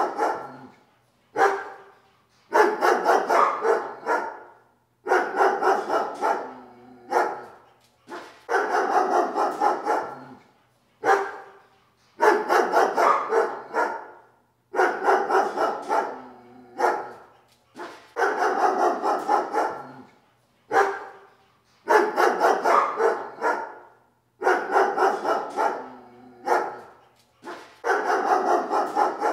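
A dog barking in repeated volleys, each a quick run of barks lasting about two seconds, coming about every two and a half seconds in an even rhythm.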